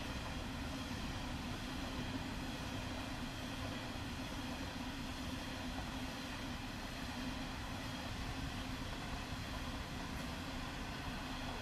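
Aurizon coal train's QHBH steel hopper wagons rolling past close by: a steady, unbroken noise of steel wheels running on the rails.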